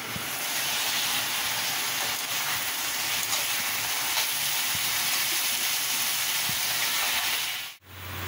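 Flat beans (avarakkai) sizzling in a hot pan as they stir-fry: a steady hiss, with a few light scrapes of the spatula. Near the end the hiss cuts off abruptly, leaving a low hum.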